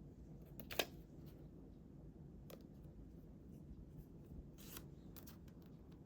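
Scissors cutting paper: a few short, sharp snips, the loudest about a second in, over faint room tone.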